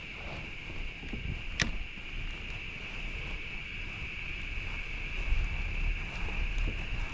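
Riverside outdoor ambience: a steady high-pitched hum with a fluctuating low rumble of wind on the microphone, and one sharp click about a second and a half in.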